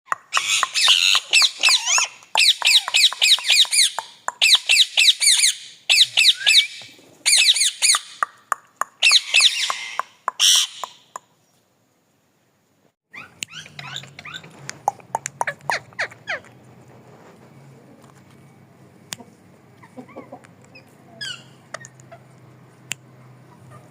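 A parrot calling in loud bursts of rapid, high, repeated notes, about six bursts in the first ten seconds. After a short cut to silence come quieter scattered chirps and clicks over a low steady hum.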